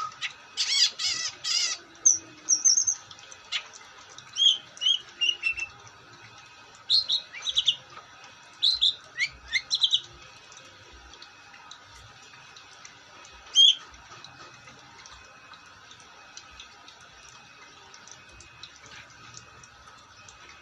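Long-tailed shrike (cendet) singing: a short burst of harsh chatter in the first two seconds, then a run of varied short whistled and chirping notes for several seconds. One sharp note about 14 seconds in, after which the bird falls quiet.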